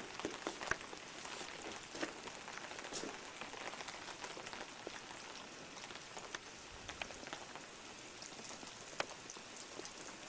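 Steady rain falling, with scattered sharp taps of drops close by.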